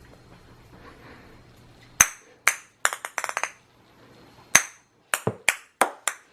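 Hard plastic toys knocking and clicking together as they are handled, about a dozen sharp irregular knocks, some with a brief ringing, starting about two seconds in.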